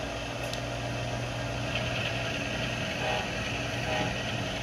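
Model GE ES44 diesel locomotive's onboard sound decoder playing a steady diesel engine drone through its small speaker, not loud, with a faint steady high whine joining about two seconds in.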